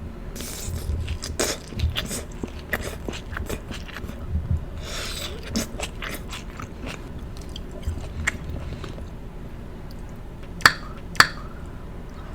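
Close-miked chewing of ribeye steak and onions: a steady run of wet mouth clicks and smacks. Two sharp clicks stand out near the end.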